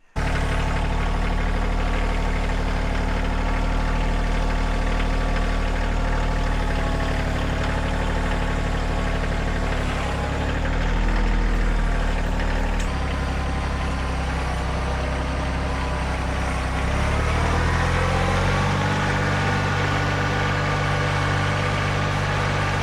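Engine running steadily, dropping and recovering in pitch about halfway through and rising again about three quarters of the way in.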